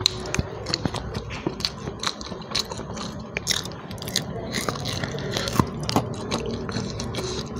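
A person chewing and biting into fried duck offal eaten by hand, with irregular wet smacks and clicks of the mouth and fingers.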